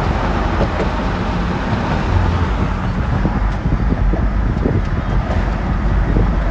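Strong wind blowing steadily, with a heavy low rumble of gusts buffeting the microphone.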